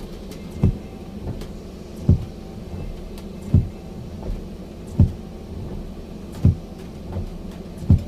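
Footsteps of a person walking at a steady pace, each step a dull low thump, alternately stronger and weaker about every 0.7 s, over a steady low rumble.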